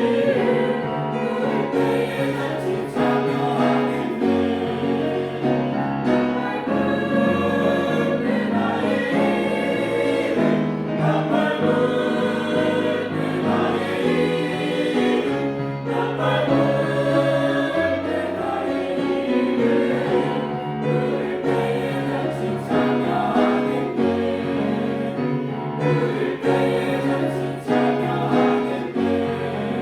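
Church choir singing a hymn in sustained chords, with the notes changing every second or two.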